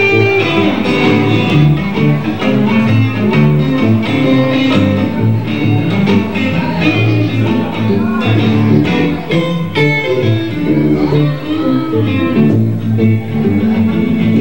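Live blues band playing an instrumental stretch of a shuffle, with guitar to the fore over bass and drums.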